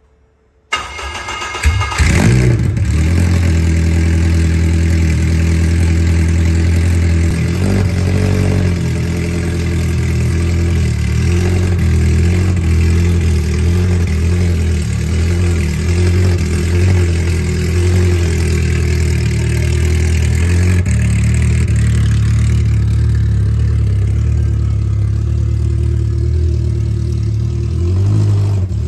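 Honda K20A inline-four engine with no exhaust after the header, started about a second in and then running very loud and steady.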